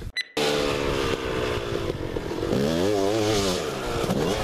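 Dirt bike engine running and revving, its pitch swinging down and back up around the middle, after a brief cut to silence just after the start.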